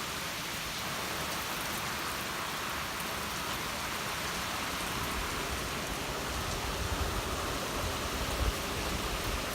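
Steady rain falling, an even hiss with a few low rumbles about two-thirds of the way through.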